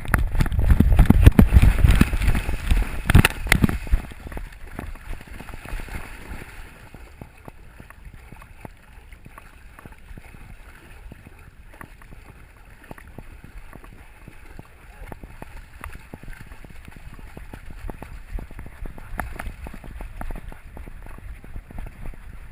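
Water splashing and churning as a dog goes into a river after a ball, heaviest in the first four seconds, then a steadier, quieter rush of water.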